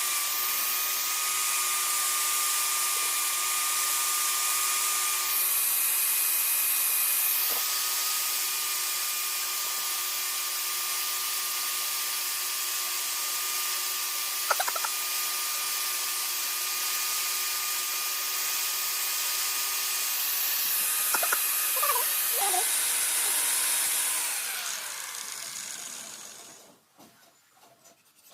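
Electric power tool running with a steady whine and hiss. Near the end it is switched off and its pitch falls as it spins down and stops.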